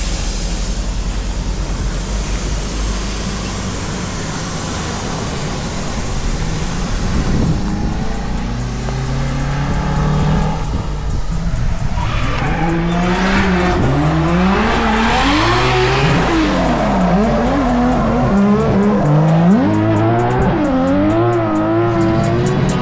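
Drift car engine running hard on a circuit, its pitch rising and falling over and over as the throttle is worked, most clearly in the second half, with tyre squeal and a steady rush of noise underneath.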